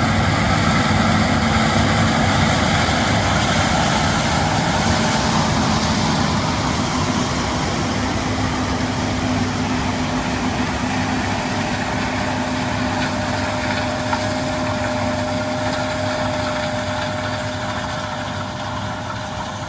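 John Deere S7 800 combine running while harvesting corn: a steady engine and machinery drone with a constant low hum and a higher one, slowly fading.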